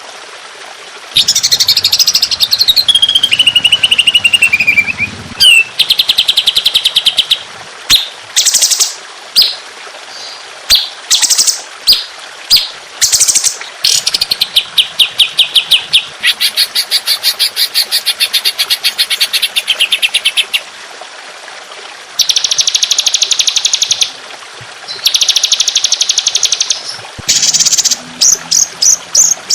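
Songbird calls from a bird-training recording: bursts of rapid, high buzzy trills and strings of sharp repeated notes, broken by short pauses. About a second in, a phrase falls steadily in pitch, and the longest trill runs for about four seconds past the middle.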